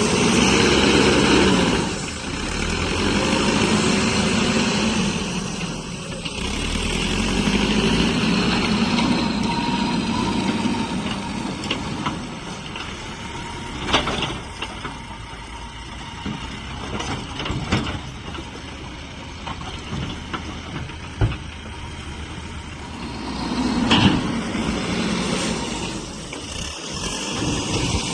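Diesel engine of a Mahindra backhoe loader working, rising and falling in repeated surges as it digs and loads sand, with a few sharp knocks in the middle.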